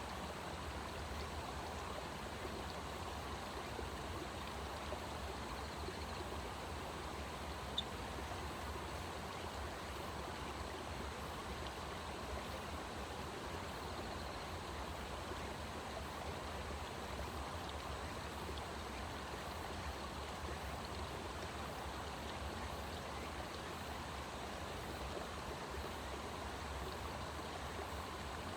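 Steady rushing of a stream of running water, with one short sharp click about a quarter of the way in.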